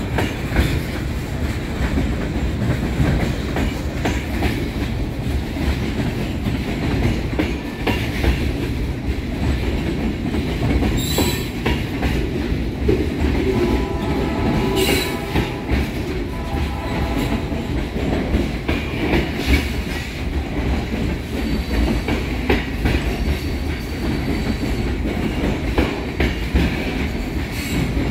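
Freight train cars, tank cars then covered hoppers, rolling past below with a steady rumble of steel wheels on rail and sharp clacks over the rail joints. A brief wheel squeal rises midway, and a faint high squeal comes in later.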